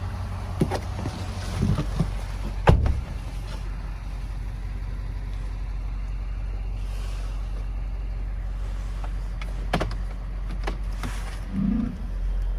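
Ford F-350 Super Duty's 6.7-litre Power Stroke V8 diesel running at a steady idle, with several sharp clicks and knocks over it, the loudest a little under three seconds in.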